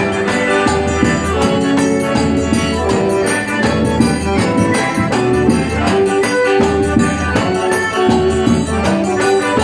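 Live band playing an instrumental passage of a forró song, with a steady beat driven by shaker- or tambourine-like percussion under sustained melodic instruments.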